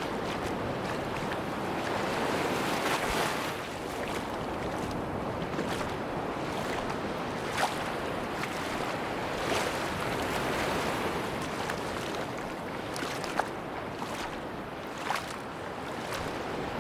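Sea waves washing onto a beach: a steady rush of surf that swells and eases every few seconds, with a few brief sharp clicks over it.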